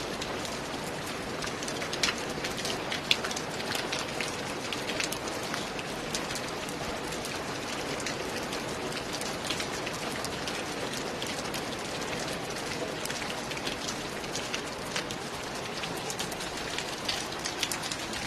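Steady rain falling on a roof, a constant hiss with many sharp individual drop hits scattered through it.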